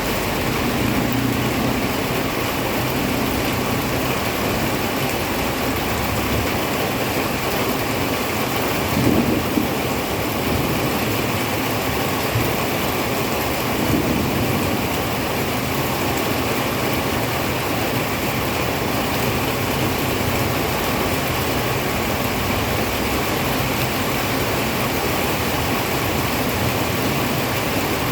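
Heavy rain pouring down steadily, with a couple of short low rumbles, about nine seconds in and again near fourteen seconds.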